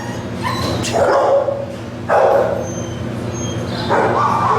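Shelter dogs barking and yipping in their kennels, several loud barks about a second apart over a steady low hum.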